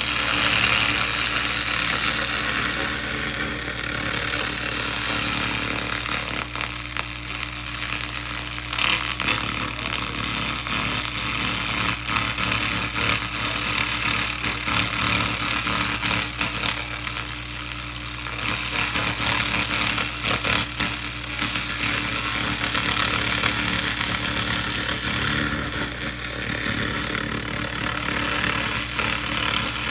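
SFX 2000 laser rust remover burning rust off metal: a rough, steady hiss that swells and eases every few seconds, over a constant low hum.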